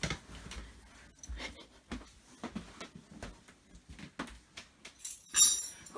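Small metal furniture hinges and screws being handled and moved, giving scattered clicks and knocks, with a louder ringing metallic clink about five and a half seconds in.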